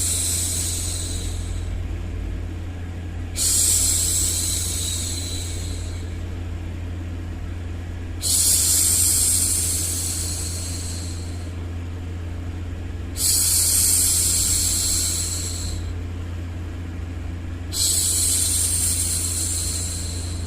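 A woman's drawn-out "shhh" for hushing a baby, repeated about every four and a half seconds, each one starting sharply and fading over a couple of seconds. Under it runs steady low white noise.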